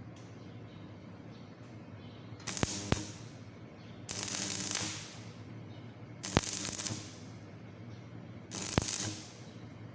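Stick (shielded metal arc) welding arc struck four times in short runs, each starting with a sharp snap as the electrode touches the work and then crackling and hissing for half a second to a second before it is broken off. A steady low hum lies under it.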